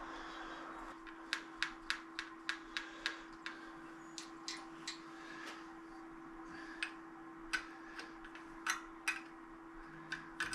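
Sharp metallic clicks and taps, quick and irregular for a couple of seconds and then scattered, as a motorcycle wheel is set up on a tire-changing machine, over a steady low hum.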